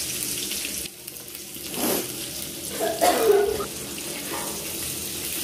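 Food sizzling in hot oil in a metal pot on a gas stove, stirred with a spoon: a steady hiss that dips about a second in and swells again, with a few knocks of the spoon against the pot.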